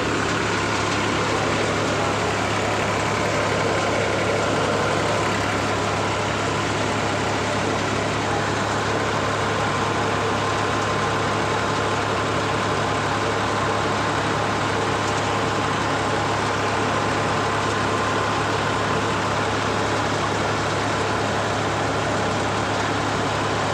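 New Holland 3600-2 50 hp tractor's diesel engine running steadily at about 1400 rpm while driving a cutter, mixed with the cutter's machinery noise. The engine note holds without dropping: the load is not pulling the rpm down.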